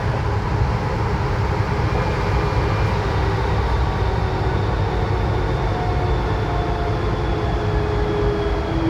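Inside a VAL 208 rubber-tyred metro car in motion: a steady rumble of the running gear with faint motor whines that slowly fall in pitch. This is the unit the uploader says has a slight traction-motor fault.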